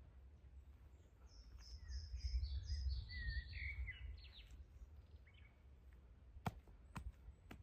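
A songbird sings a quick run of short whistled notes that step down in pitch, over a steady low rumble. Near the end come three sharp knocks or snaps.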